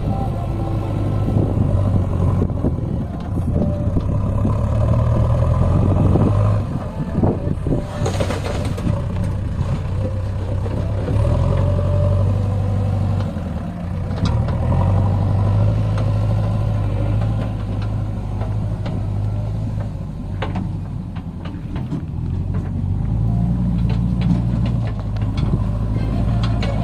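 Heavy diesel engine working under load, its note swelling and easing again several times, with a short noisy burst about eight seconds in.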